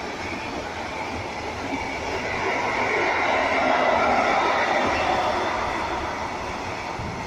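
Intermodal freight train of pocket wagons carrying semi-trailers rolling past: a steady rumble and rush of wheels on rails. It grows louder in the middle and eases off near the end.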